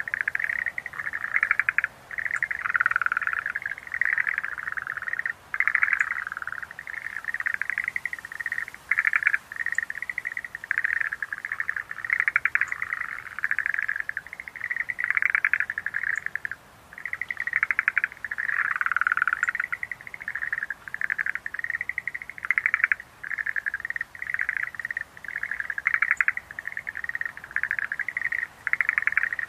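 A chorus of Schlegel's green tree frogs calling: rapid trills of pulses, one frog's call overlapping the next at slightly different pitches, with only brief pauses.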